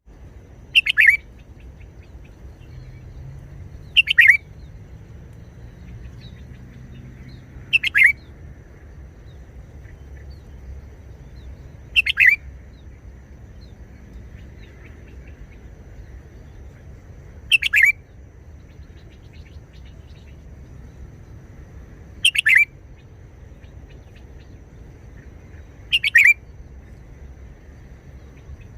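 Red-whiskered bulbul singing short, sharp song phrases, one about every four seconds, seven in all.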